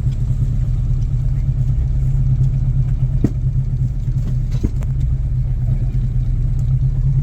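Steady low rumble of a running car, with two faint clicks, one about three seconds in and one about four and a half seconds in.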